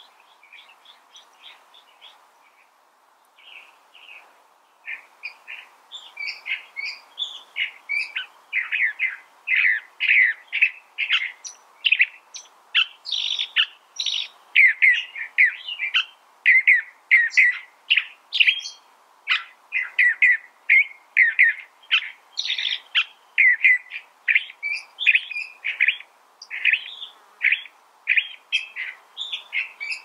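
California thrasher singing: a long, continuous song of short, varied phrases at about two a second, faint at first and louder from about five seconds in.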